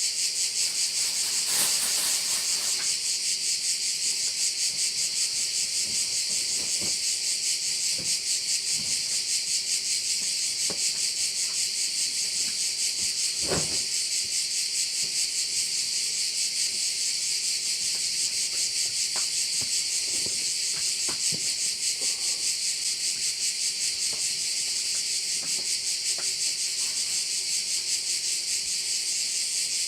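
Dense chorus of cicadas, many insects buzzing together in one continuous, fast-pulsing high-pitched drone, with a few faint knocks in the background, the clearest about halfway through.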